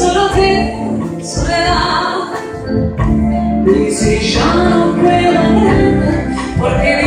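A singer performing with a live orchestra: a sung melody over the band's accompaniment.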